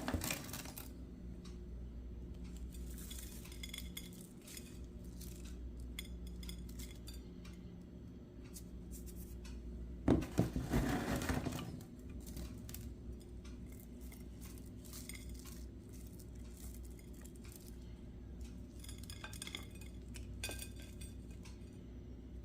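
Faint clinks and scrapes of a spoon against a bowl while granola is sprinkled on, with a louder spell of clinking about ten seconds in, over a low steady hum.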